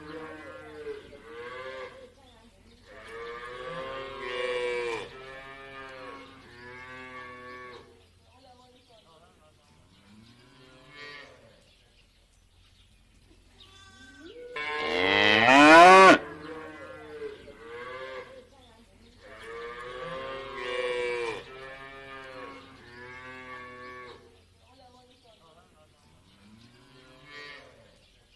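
Cattle mooing in a run of repeated calls. The loudest, about halfway through, rises sharply in pitch, and quieter calls come before and after it.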